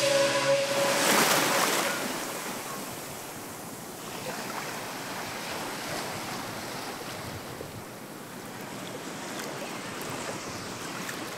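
Sea surf washing onto a beach: a steady wash of waves that swells and eases a few times, louder in the first couple of seconds.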